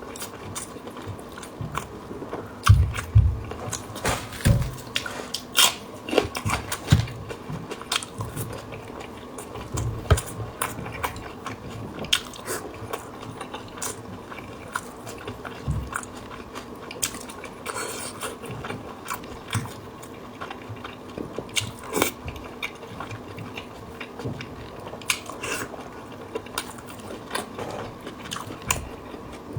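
Close-miked eating sounds: biting and wet chewing of red-braised pork belly with rice and raw scallion, with irregular smacks and crunches. A faint steady hum runs underneath.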